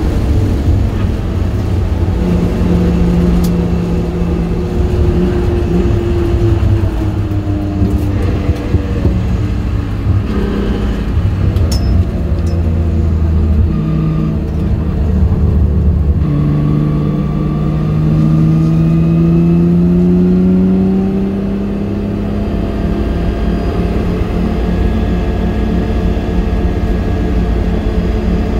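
Nissan 300ZX engine heard from inside the cabin, pulling hard on track. Its pitch climbs and drops several times with gear changes and corners, with a long steady rise from about halfway through, then holds level near the end.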